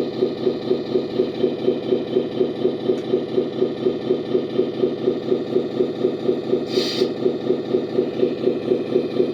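Simulated Scania V8 engine sound from a Servonaut SM3 sound module, played through the RC truck's loudspeaker, idling with an even throb of about three to four beats a second. A short hiss comes about seven seconds in.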